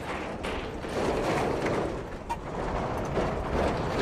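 Road train truck on the move, with steady engine and road noise and no clear pitch or rhythm.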